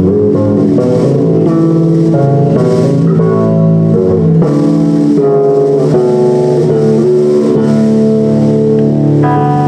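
Live punk rock band playing a song, led by guitars with bass underneath, loud and continuous.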